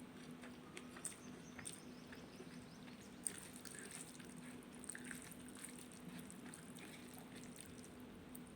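Faint wet eating sounds of rajma and rice: chewing and small mouth clicks, with one sharper click about three seconds in, over a steady low hum.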